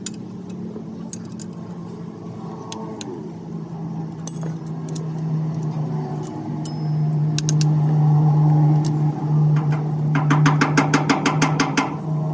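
A steady motor hum, with scattered metallic clicks and a fast run of ticks, about seven a second, for a couple of seconds near the end.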